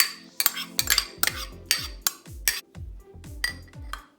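A spoon clinking and scraping against a mixing bowl in a quick run of sharp clicks as chopped ham is spooned into the salad.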